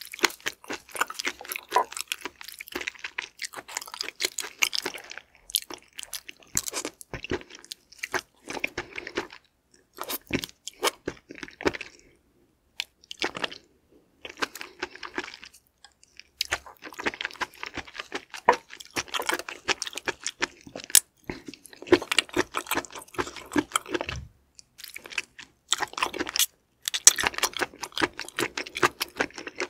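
Close-miked wet chewing and slurping of raw seafood, sea cucumber innards among it: irregular runs of smacking, squelching clicks, broken by a few short pauses.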